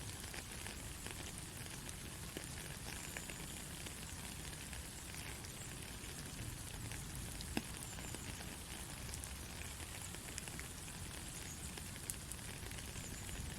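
Soft rain falling in a steady hiss, dotted with many small drop ticks and an occasional slightly louder drop.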